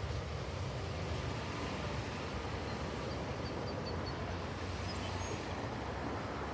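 Steady low rumble of a departing NJ Transit commuter train, with its ALP-46A electric locomotive at the rear. A few faint high chirps come in the middle.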